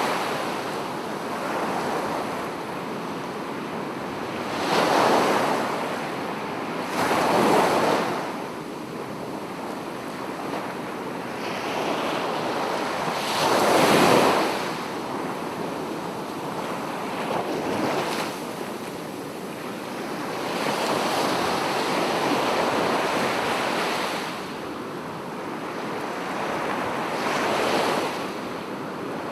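Sea waves breaking on the shore, one wash after another swelling and fading every few seconds, a few of them noticeably louder than the rest.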